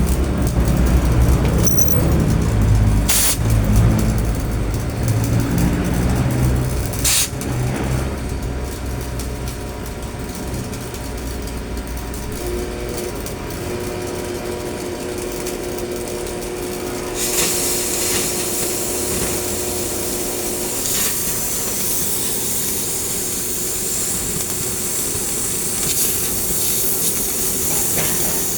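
A low engine rumble with a couple of sharp clicks, easing into a steady hum. A little past halfway a loud, even hiss sets in and holds, from a torch cutting steel plate.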